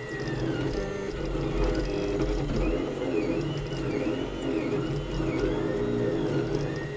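Leapfrog Creatr 3D printer printing: its stepper motors whine in repeated rising-and-falling tones as the print head speeds up and slows down on each move, over a steady low hum.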